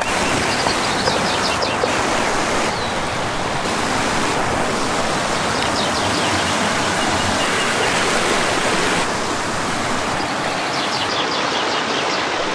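Steady rushing noise, like running water, with brief clusters of high chirps three times.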